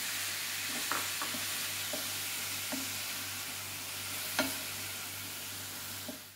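Chopped onions and tomatoes sizzling as they are sautéed on high flame in a frying pan, stirred and scraped with a wooden spatula. A few sharp taps of the spatula against the pan, the loudest about four seconds in.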